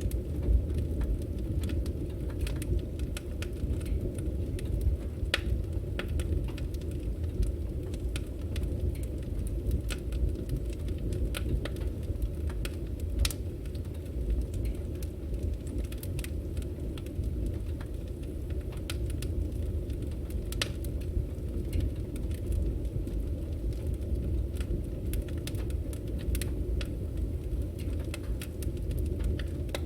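Firewood burning: a steady low rumble of the flames with frequent irregular sharp crackles and pops from the wood.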